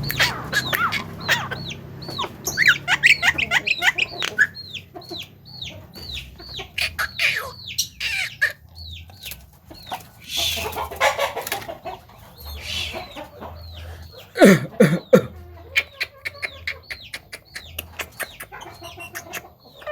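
Javan myna chattering: a long run of short, quick whistled notes mixed with sharp clicks, several a second, with a louder falling call near the middle.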